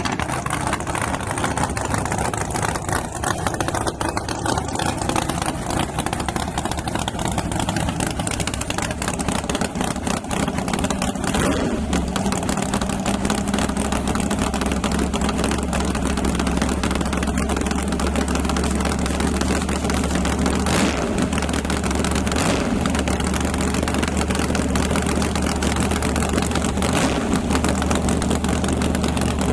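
Engine of a nitrous-fed Ford Ranger truck running loud and steady, mostly at idle; its low note gets stronger about twelve seconds in. A few short sharp sounds stand out over it.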